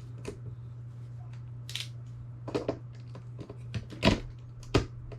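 Assembly hardware being handled and fitted: a scattering of sharp clicks and clacks, about half a dozen, the loudest about four seconds in and another just before five. A steady low hum runs underneath.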